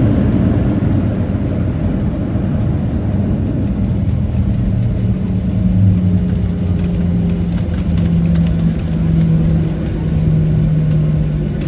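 Boeing 737-700 heard from inside the cabin as it slows after landing: a loud rumble of engines, air and wheels that gradually eases off. A low hum comes in partway through and steps down in pitch, with a few faint rattles.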